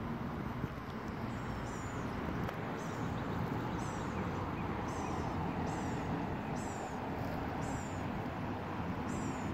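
A bird repeating a short, high, falling chirp about once a second over steady background noise.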